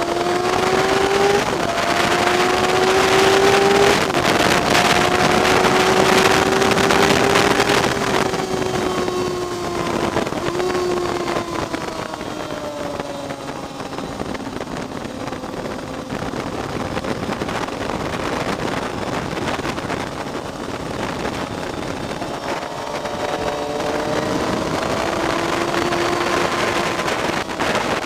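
Onboard sound of a car engine at full throttle on a race track, its pitch climbing and dropping back at upshifts about a second and a half and four seconds in, then falling away as the car slows, and climbing again near the end. Wind rush is loud while the car is at speed.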